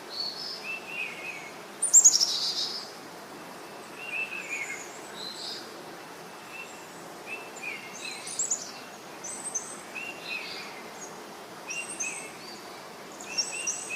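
Several wild birds chirping and calling over a steady background hiss. A short call near the middle of the pitch range repeats every second or so, with scattered higher calls. About two seconds in comes a loud burst of quick falling notes.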